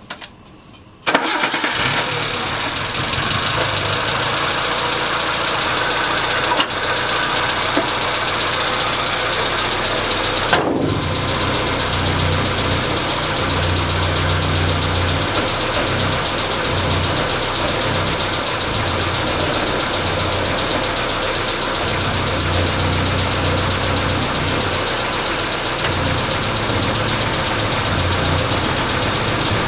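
Suzuki Samurai's four-cylinder engine starts about a second in and runs steadily, with a strong, wavering low hum and one sharp knock or rattle about ten seconds in. The hood is vibrating on its stoppers, which the owner puts down to a damping spring that has backed out.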